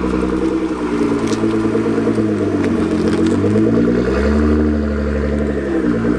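Performance car's engine and exhaust running loudly, its note falling and rising several times, with a sharp dip and recovery near the end.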